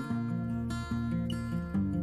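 Background music: an acoustic guitar playing a steady run of chords.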